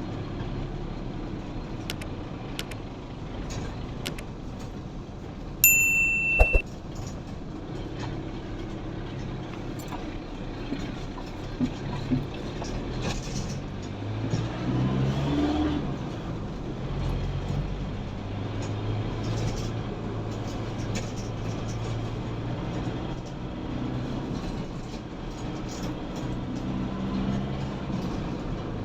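Road traffic with vehicle engines running, one rising in pitch about halfway through. A loud, short, high-pitched beep sounds about six seconds in.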